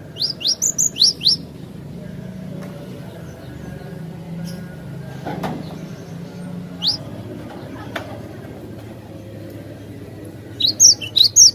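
Cinereous tit (glatik batu) singing: a quick run of about half a dozen high, rising notes near the start, a single note in the middle and another rapid run near the end, over a steady low hum.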